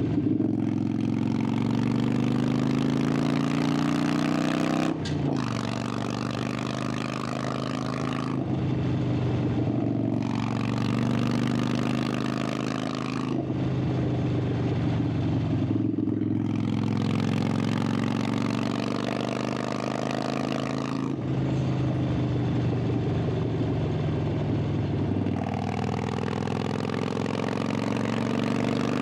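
Harley-Davidson Sportster 883's air-cooled V-twin engine and exhaust under way. The pitch climbs under throttle, then drops back and climbs again several times.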